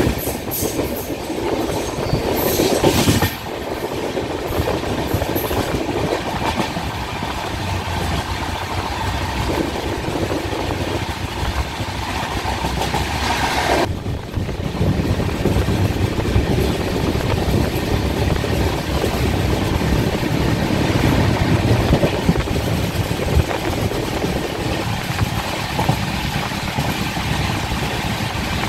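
Passenger train running along the track, heard from inside the coach: a steady rumble of wheels on rails with clacking over the rail joints. The sound changes abruptly about three seconds in and again about fourteen seconds in, when the hiss in it falls away.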